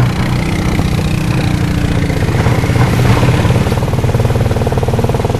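Engine of a small off-road vehicle running steadily as it drives along.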